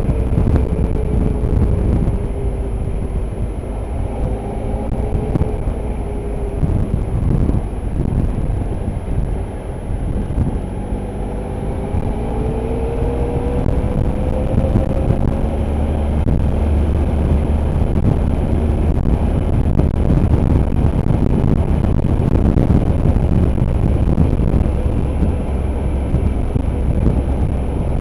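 Motorcycle engine heard while riding, running under a steady rumble. Its pitch falls over the first few seconds as the bike slows, climbs again as it accelerates about halfway through, then holds steady.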